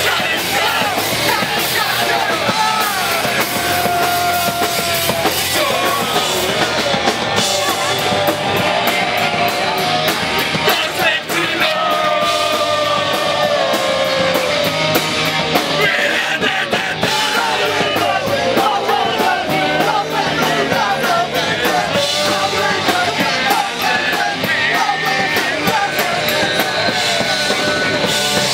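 A punk/hardcore band playing live at full volume: distorted guitars, bass and drum kit under shouted and sung vocals, without a break.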